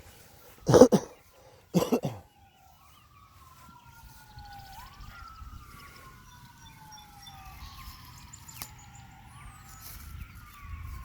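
Two loud bumps about a second apart near the start, then a distant emergency-vehicle siren wailing, its pitch sliding slowly down and back up every couple of seconds.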